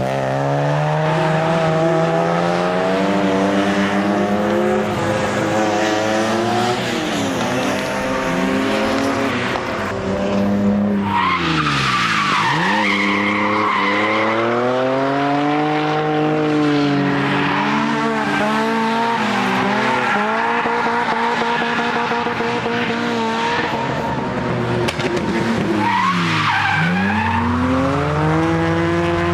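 Drift car's engine revving hard, its pitch climbing and falling over and over, with tyres skidding and squealing. The revs drop sharply and climb back twice, about twelve seconds in and again near the end, each time with a rush of tyre noise.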